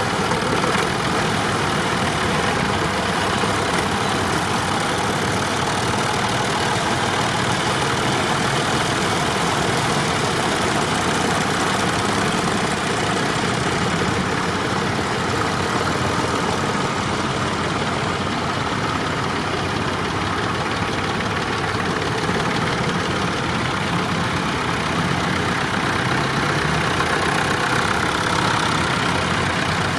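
Tractor engine running steadily, a constant even engine sound with no change in pace.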